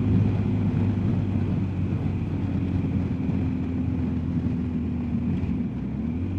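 BMW R1250GSA's boxer-twin engine running at a steady cruise with wind and road noise, the engine note dipping briefly and picking back up near the end.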